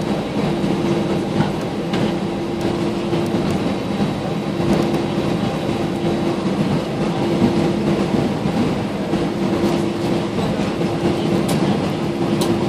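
Airbus A320 cabin noise while taxiing: the jet engines running at low taxi thrust, with the rumble of the airliner rolling along the taxiway. A steady hum fades in and out over the engine noise, with a few faint clicks.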